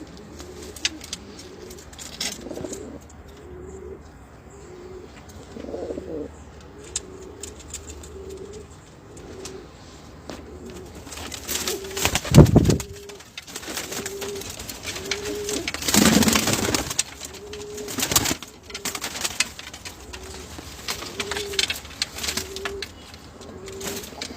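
Domestic homing pigeons cooing, short low coos repeating about once a second. A loud thump comes about twelve seconds in, and louder rustling noise a few seconds later.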